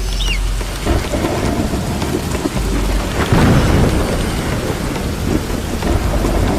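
Heavy rain falling, with thunder rumbling low underneath, swelling into its loudest roll about three seconds in.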